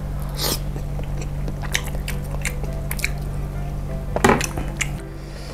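Chewing a bite of mozzarella-stuffed meatball, with scattered mouth clicks, the largest about four seconds in, over steady background music.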